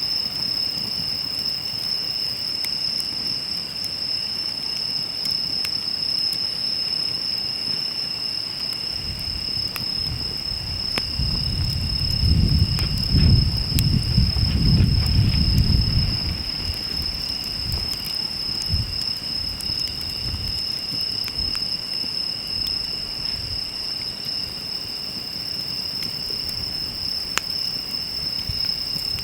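A wood campfire crackling with sharp, scattered pops, over a steady high trilling of insects such as crickets. A louder low rumble swells up for a few seconds in the middle.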